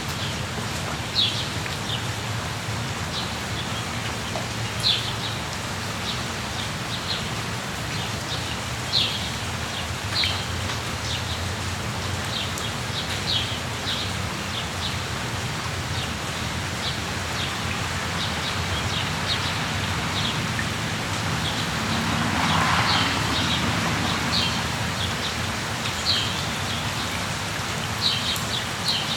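Steady rain with short, high bird chirps every second or two. The rain noise swells louder for a couple of seconds about two-thirds of the way through.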